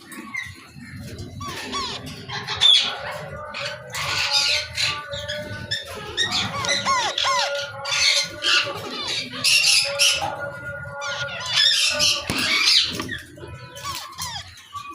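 Alexandrine parakeet (pahari parrot) giving repeated harsh squawks in bursts every second or two, over background music.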